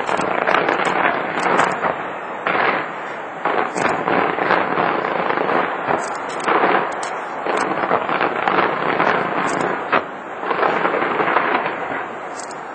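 Fireworks display: shells bursting and crackling in quick, overlapping succession, easing off slightly near the end.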